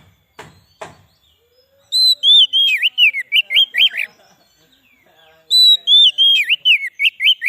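Oriental magpie-robin (kacer) singing: two bursts of rapid, looping whistled notes, the first about two seconds in, the second near the end. Two faint clicks come just before the song.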